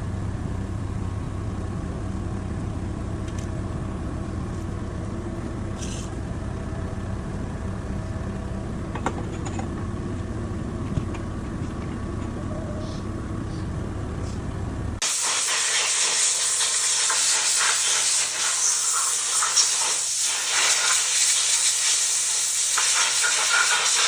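Steady low vehicle-like rumble that cuts off abruptly about fifteen seconds in, replaced by a louder, steady, high-pitched hiss.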